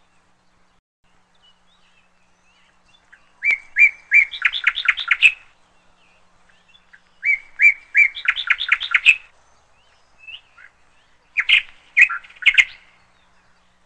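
A songbird singing three short phrases a few seconds apart, each a couple of separate opening notes that run into a fast string of chirps.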